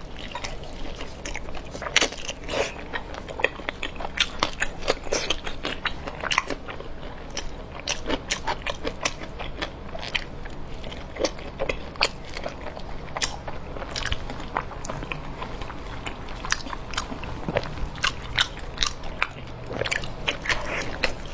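Close-miked biting and chewing of braised beef tendon: a steady, irregular run of sharp mouth clicks and smacks.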